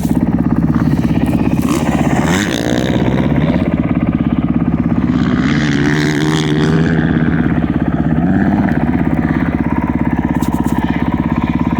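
Honda CRF450R single-cylinder four-stroke motocross engine running hard under riding, its pitch dropping and climbing again a few times as the throttle is worked.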